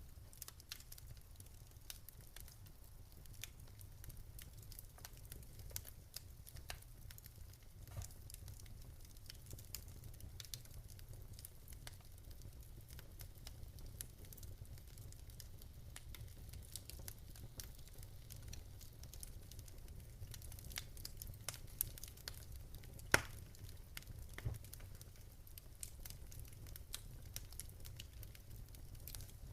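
Wood fire burning in a fireplace, with a low rumble and scattered sharp crackles and pops, the loudest pop about twenty-three seconds in.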